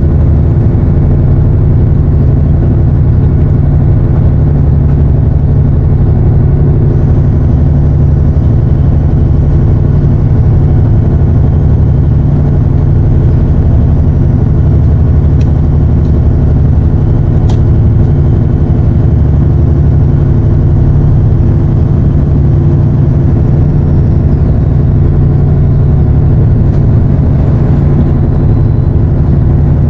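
Fishing boat's engine running steadily under way, a loud, even low drone with no change in speed.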